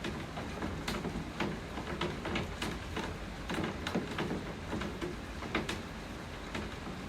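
Steady rain falling, with irregular sharp taps of drops landing close by, several a second.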